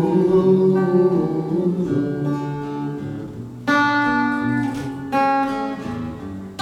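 Acoustic guitar played solo: chords struck and left to ring, with a fresh, louder chord a little past halfway and another about three-quarters of the way through.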